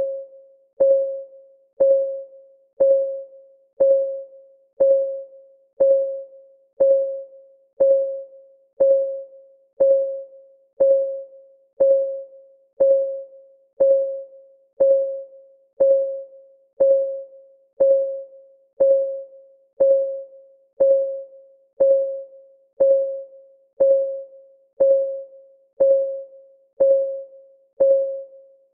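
Clock ticking sound of a countdown timer: a short, pitched tick about once a second, each ringing briefly and dying away, steady and even throughout.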